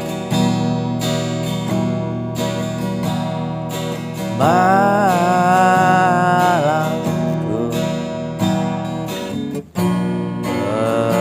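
Acoustic guitar strummed steadily, accompanying a singer who holds one long sung note about halfway through and starts another line near the end.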